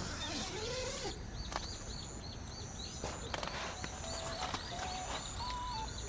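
Outdoor wildlife sound: a rapid run of high, repeated chirps, about four a second, over a steady high thin buzz. Soft music notes come in about four seconds in.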